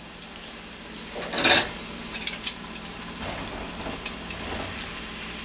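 Chopped onion sizzling in a hot grill pan in chicken juices and butter, with a short louder burst about a second and a half in and a few light metal spoon clinks as chopped tomatoes are tipped in from a bowl.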